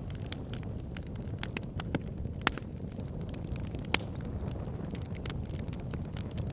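Wood logs burning in a fireplace, crackling with irregular pops over a steady low rumble. Two sharper pops stand out, about two and a half and four seconds in.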